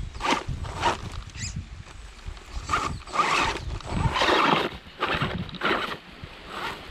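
WLtoys 104009 electric RC car driving over rough, rocky ground: irregular bursts of wheel crunching and knocking with motor noise.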